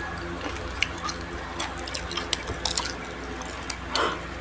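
Close-up chewing of crispy fried food: irregular sharp crunches and wet mouth clicks.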